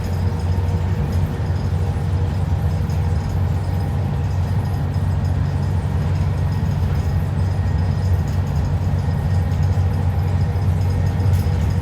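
ADL Enviro 400 double-decker bus in motion, heard on board: a steady, deep engine drone with road noise and no sharp changes.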